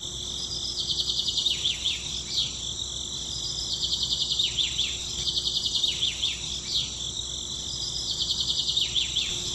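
A songbird repeating the same phrase about every two seconds, a fast trill followed by a few downward-sliding notes, over a steady high drone of insects.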